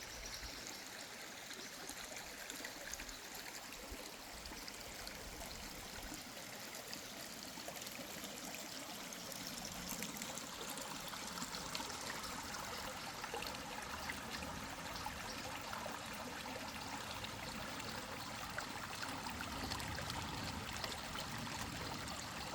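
Mountain river flowing: a steady rush of running water that gets a little louder about ten seconds in.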